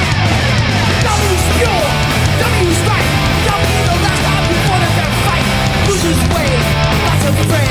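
A live hardcore punk band playing loud and fast, with distorted electric guitars, bass and drums.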